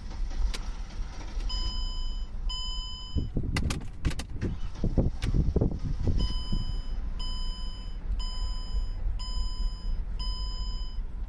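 Mercedes 3.2-litre V6 cranking and catching a few seconds in, then running roughly at idle: it is starved of fuel by a badly worn fuel pump. A warning chime beeps about once a second throughout.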